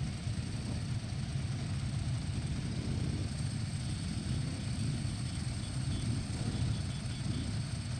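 Steady low rumble of motorcycle engines on the move, mixed with wind noise.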